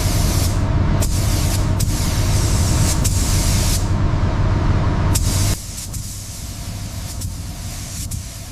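Bursts of spraying hiss, stopping and starting about once a second, over a steady low motor rumble; about five and a half seconds in it drops suddenly to a quieter rumble with fainter spraying.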